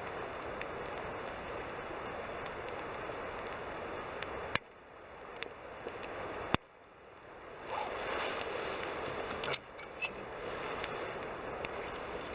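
Campfire burning with a steady rush of flame and scattered sharp crackles and pops of the burning wood. Twice the rush cuts off right after a loud pop and swells back up.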